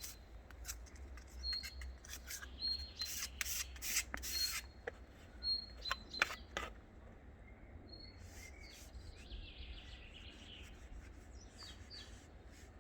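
A run of short rubbing or scraping strokes during grave repair work, stopping about halfway through, with a bird chirping repeatedly.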